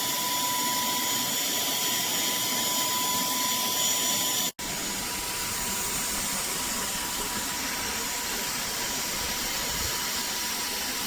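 Cordless handheld vacuum cleaner motor running steadily: an even rushing noise with a thin steady whine. It cuts out for an instant about four and a half seconds in, then carries on as before.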